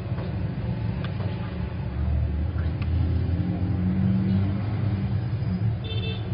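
Steady low rumble of background noise with a few faint clicks, and a short high-pitched beep about six seconds in.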